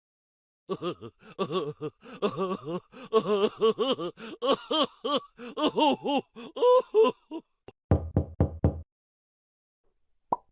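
Comedy sound effects: a rapid run of short, squeaky, pitched cartoon-like sounds that bob up and down in pitch, then four quick knocks about eight seconds in.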